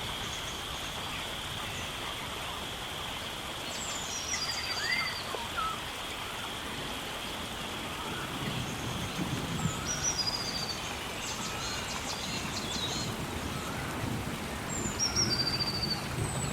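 Rainforest ambience: birds calling over a steady hiss and a high insect hum. One bird repeats the same call, a falling whistle followed by a short trill, three times about five seconds apart, with other chirps between; the insect hum fades about halfway through.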